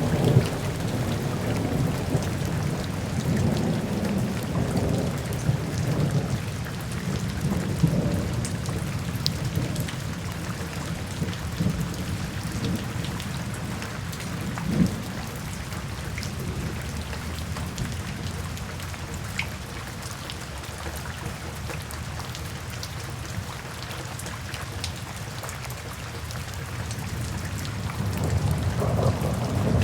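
Steady rain falling in a forest, with a low rumble of thunder rolling through the first several seconds, dying away and building again near the end.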